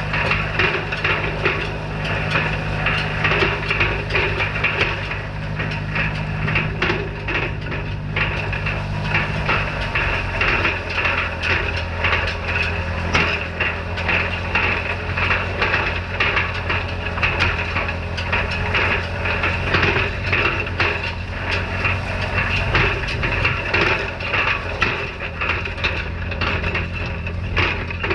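Tractor engine running steadily while pulling a hay rake, with constant rapid clattering and knocking from the machinery. The engine's note shifts about ten seconds in.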